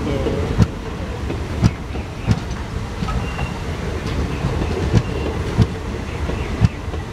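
Indian Railways passenger coaches rolling past close by: a steady rumble of wheels on rail, with sharp clacks about once a second as the wheels cross rail joints, and a faint wheel squeal.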